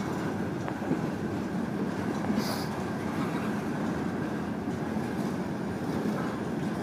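Freight train of open-top hopper cars rolling slowly past, a steady rumble of steel wheels on rail. A brief high hiss comes about two and a half seconds in.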